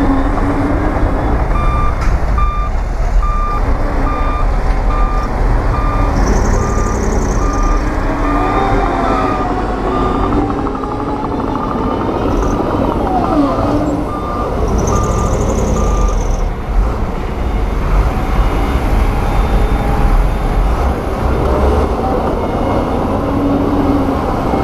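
Heavy diesel earthmoving machinery running steadily, with a reversing alarm beeping at an even pace that stops about two-thirds of the way through.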